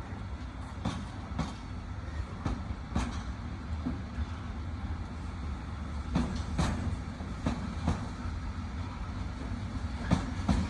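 Container freight train rolling past, a steady low rumble of wheels on rail with sharp wheel clacks over a rail joint that come in pairs about half a second apart, several times.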